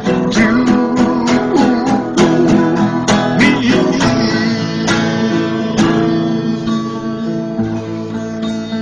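Acoustic guitar strumming the closing chords of a slow ballad, with a man's sung note held and wavering over the first few seconds.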